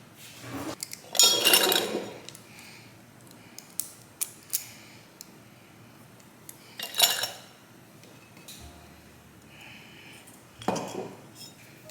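Kitchen clatter of dishes, pans and utensils being handled during cooking: several short bursts of clinking and knocking, the loudest a second or so in, with more around the middle and near the end.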